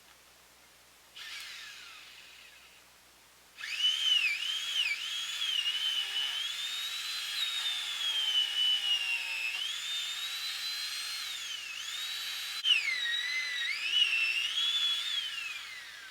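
Chainsaw revving: a short burst about a second in that dies away, then from about three and a half seconds a sustained high-pitched whine whose pitch keeps dipping and recovering as it works, winding down near the end.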